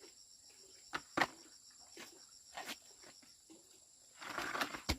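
Insects chirping steadily in a high, faintly pulsing drone, with a few sharp clicks from handling and a brief rustle and a click near the end.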